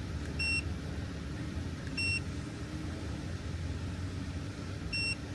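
Handheld OBD scan tool beeping as its buttons are pressed: three short, high single beeps, about a second and a half to three seconds apart, over a steady low hum.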